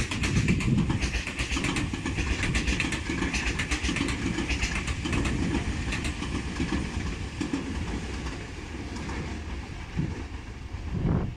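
Tobu 500 series Revaty limited express electric train running past on the station tracks: a steady rumble of wheels with rapid clicking over the rail joints, slowly fading as it draws away.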